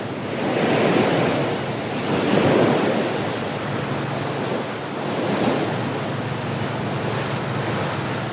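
Sea waves surging and washing against rocks, swelling and easing a few times, with wind. A faint low steady hum comes in about halfway through.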